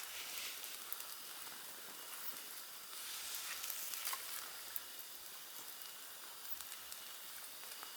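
Steady hiss of rain falling in a forest, with a few scattered light ticks.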